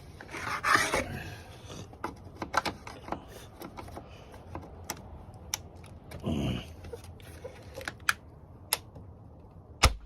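Scattered clicks, knocks and rustling of hands and tools working plastic retaining clips and trim on a car's front end. A short louder sound comes around six seconds in, and a sharp click comes near the end.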